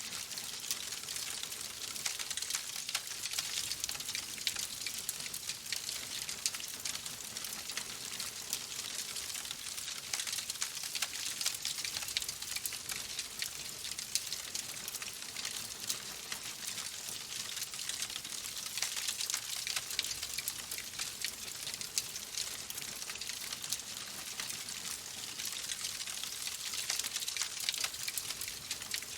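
Fireplace fire crackling: a steady hiss dotted with many small sharp pops and snaps.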